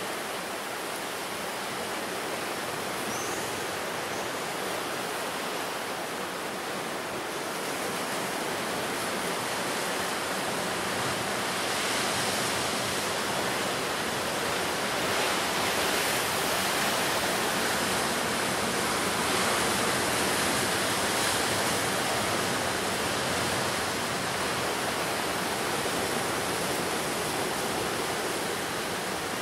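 Sea surf washing ashore: a steady rush of breaking waves that swells louder through the middle and eases again toward the end.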